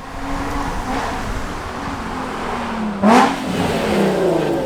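A car's engine as the car drives up, its pitch drifting and then jumping in one brief rev about three seconds in, the loudest moment, before falling away.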